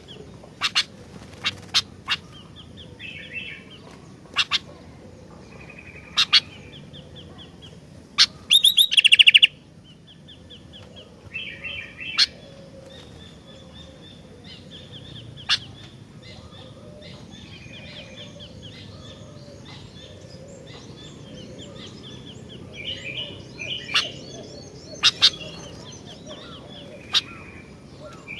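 Sooty-headed bulbul (kutilang) calling in short bursts of chirps and sharp clicking notes. The loudest is a rapid rattling burst about nine seconds in, and there is a stretch of softer, continuous chattering in the middle.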